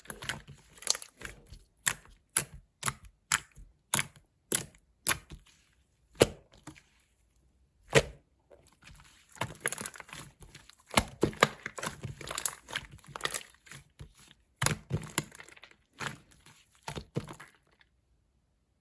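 Clear slime being pressed and folded by hand, giving sharp clicks and pops of trapped air, about two a second at first, then denser crackling clusters; it stops shortly before the end.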